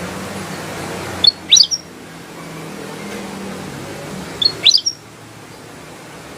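Kutilang emas bulbul calling twice, each call a quick burst of a few sharp, rising whistled notes, about three seconds apart, over a steady low background hum.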